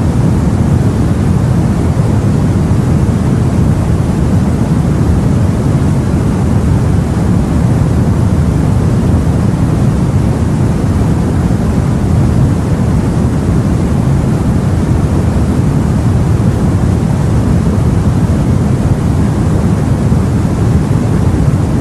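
Steady, loud low rumble of sea and wind heard aboard a boat, with no separate wave breaks or other events standing out.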